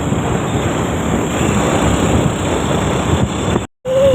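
Steady engine and road noise of a vehicle on the move, broken by a brief dropout to silence near the end.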